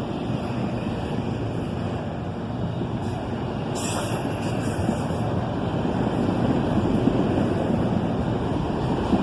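Freight train of empty auto-rack cars rolling past while slowing, a steady rumble of steel wheels on rail. A brief high metallic squeal rises over it about four seconds in.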